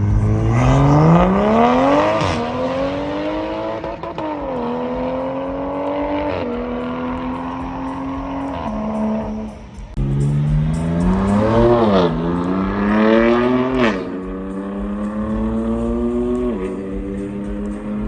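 Car engine revving: pitch climbs, drops back and climbs again, then holds at high revs with small step-downs. After a brief break about ten seconds in, the same climb-and-drop pattern repeats.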